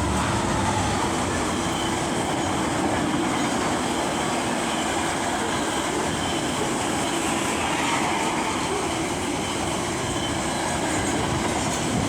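A train passing close by a station platform: a loud, steady rush of wheel and rail noise that lasts the whole stretch.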